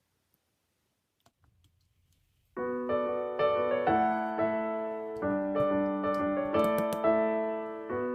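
Near silence with a few faint clicks, then solo piano music starts about two and a half seconds in, with chords changing every half second or so.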